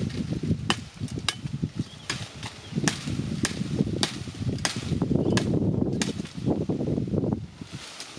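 A series of sharp, irregular knocks, roughly one to two a second, over a low rumbling noise.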